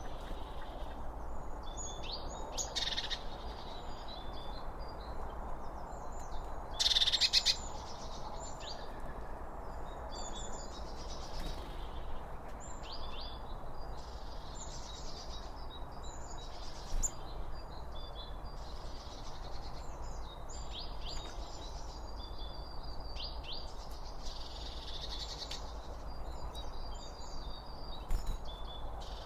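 Several songbirds chirping and calling, with one louder, harsher call about seven seconds in, over a steady background hiss.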